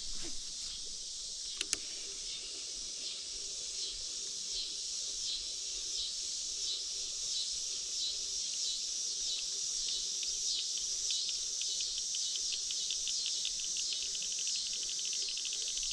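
Outdoor insect chorus: a high, pulsing drone that quickens into a fast, even trill near the end, with a couple of sharp clicks about two seconds in.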